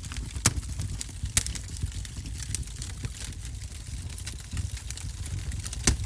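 Fire crackling in a fireplace: irregular sharp pops and snaps over a low steady rumble, with louder pops about half a second in, about a second and a half in, and near the end.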